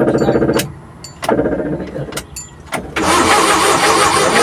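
Suzuki Multicab's F6A three-cylinder engine cranking on the starter in two short bursts without catching. A loud, steady hiss follows about three seconds in.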